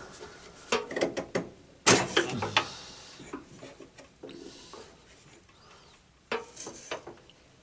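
Metal parts knocking and clunking as a garden tractor steering box is worked into place in the frame: scattered sharp knocks, the loudest about two seconds in, then a quieter stretch and a few more knocks near the end.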